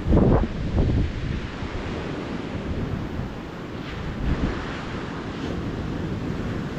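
Calm ocean surf washing onto the beach at night, with wind on the microphone. Two loud, low gusts come in the first second, and a smaller one comes about four seconds in.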